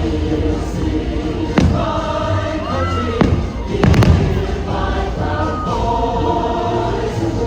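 Choral music from the fireworks show soundtrack playing over loudspeakers, with firework shells bursting: a bang about one and a half seconds in, another about three seconds in, and a quick cluster of bangs around four seconds in.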